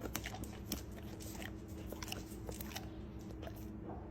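Great Pyrenees dog chewing and licking a sticky pumpkin crème candy: irregular small clicks and smacks of the mouth working on candy that is hard to chew in small bits.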